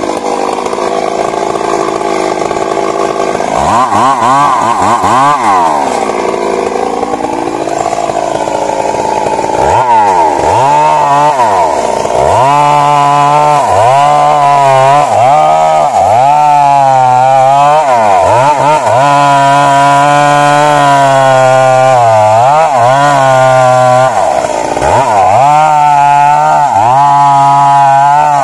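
Stihl MS 382 two-stroke chainsaw running loud, its engine pitch repeatedly rising and falling, held mostly at high revs from about ten seconds in, with a few brief drops where the throttle is let off.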